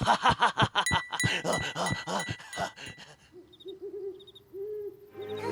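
Cartoon sound effects: a fast run of short pitched notes for about three seconds, then a few soft low hoots.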